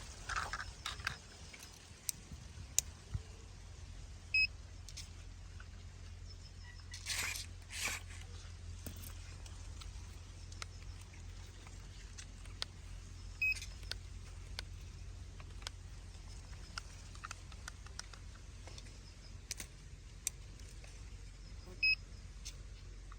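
Three short electronic beeps about nine seconds apart over a low steady hum, with scattered small clicks and two brief scraping rushes about seven to eight seconds in.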